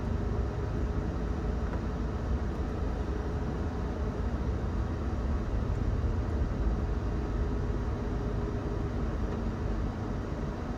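Steady low rumble of a car running in traffic, engine and road noise, with a faint steady hum.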